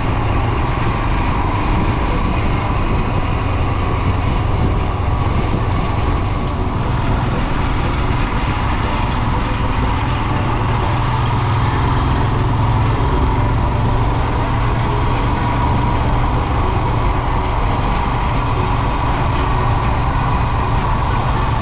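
Royal Enfield Himalayan's 411 cc single-cylinder engine running steadily while the motorcycle is ridden, with music playing alongside.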